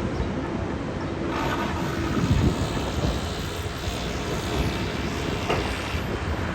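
Steady outdoor traffic noise: a low rumble of passing vehicles with a hiss over it.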